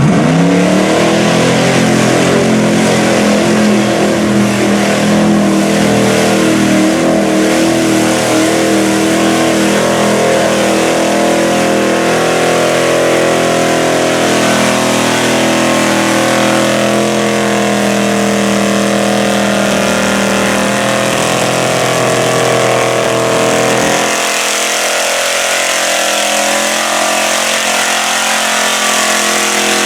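Mud-bog truck's engine running hard at high revs, its pitch climbing right at the start and then holding steady. About six seconds before the end the deep low end falls away.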